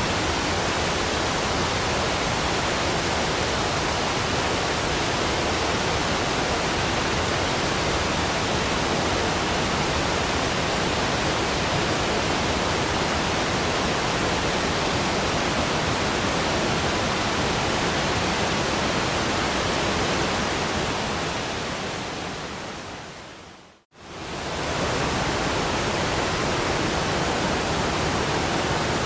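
Waterfall rushing, a steady, even roar of falling water. About three quarters of the way through it fades away to nothing over a couple of seconds, then cuts straight back in at full level: the seam where the looped waterfall recording restarts.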